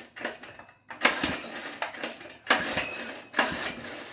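Metal parts and tools clinking and scraping as they are handled, in about five short, sharp bursts.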